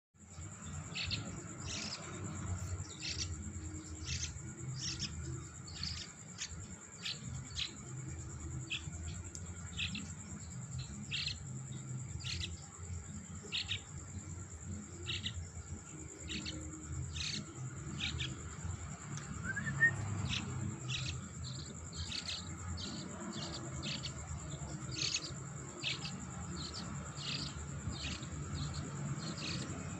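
Yellow-vented bulbul chick giving short high chirps over and over, roughly once a second, over a steady high-pitched tone.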